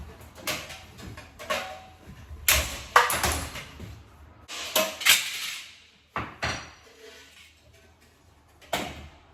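Hands working on a kitchen range hood and its metal parts: an irregular string of knocks, clicks and scrapes, loudest about three seconds in, thinning out later, with one sharp knock near the end.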